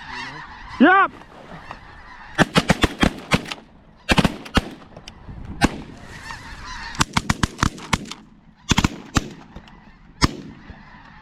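Several shotguns firing in quick volleys, about twenty shots in four or five clusters, over the steady clamour of a large flock of snow geese calling. A short shout comes just before the shooting starts.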